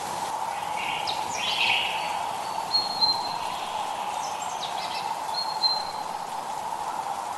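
Wild birds calling over a steady hiss of drizzling rain: a few quick downward-sweeping notes, and two thin high whistles about three and five and a half seconds in.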